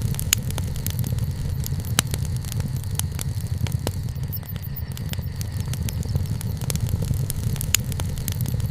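Wood campfire crackling, with irregular sharp pops and snaps (a strong one about two seconds in) over a steady low rumble.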